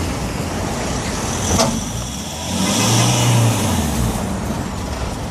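A UPS delivery truck's engine revving up and falling back about three seconds in, as the truck tries to pull out of a snowbank it is stuck in. A short sharp knock comes about a second and a half in.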